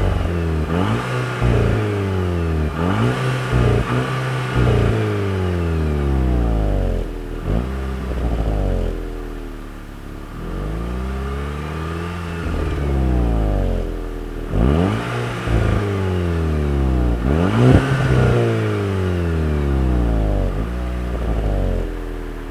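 Volkswagen Golf 6 GTI's stock turbocharged 2.0 TSI four-cylinder engine and exhaust, revving up and dropping back again and again, with a quieter, lower stretch around the middle.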